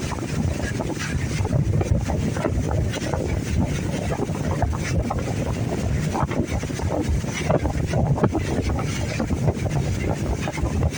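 Riding in a moving boat: steady rushing wind buffeting the microphone over the boat's running noise on the water.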